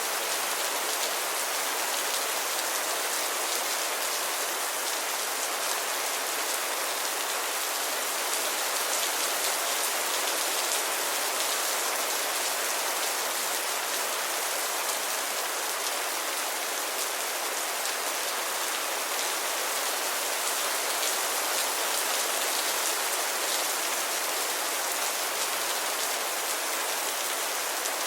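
Steady rain falling, a dense even hiss of drops on a surface.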